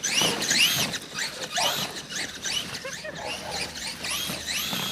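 American bulldog whining in a string of short, high-pitched squeals, each rising then falling in pitch.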